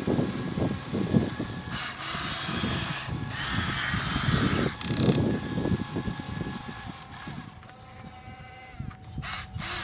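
Small electric motor of a Huina 1573 radio-controlled dump truck whining steadily, over irregular low knocking and rattling.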